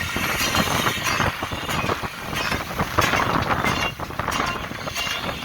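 Jeep driving over a rough track: a steady mix of engine and road noise with frequent clattering knocks and rattles from the body.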